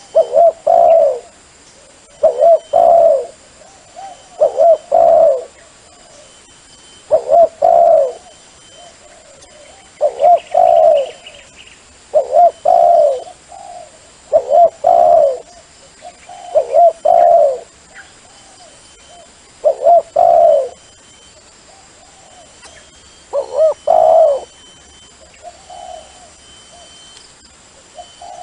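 Dove cooing: a repeated multi-note coo phrase, roughly one every two seconds, pausing after about twenty seconds before a couple more phrases. This is a dove call played to lure doves in.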